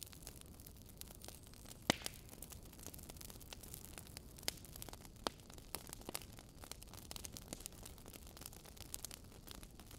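Wood fire crackling in a fireplace: irregular pops and snaps over a faint steady hiss, with the loudest snap about two seconds in.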